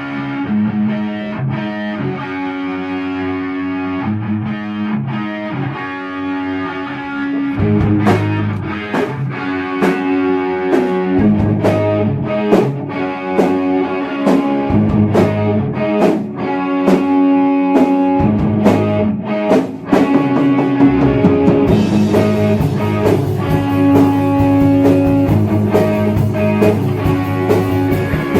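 Heavy metal band playing: a distorted electric guitar plays alone at first, then the drums come in about eight seconds in with regular cymbal hits, and the playing gets fuller and brighter with steady cymbals in the last few seconds.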